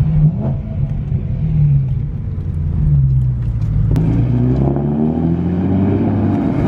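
Sports car engine and exhaust under way, its note falling and rising with the throttle, with a sharp click about four seconds in before the pitch climbs again.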